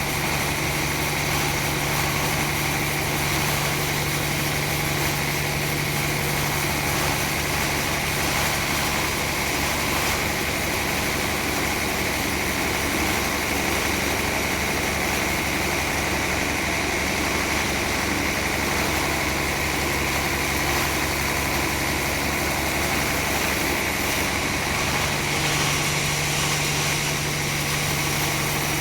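Sawmill machinery running steadily, a continuous engine hum with a constant higher whine and no change in load.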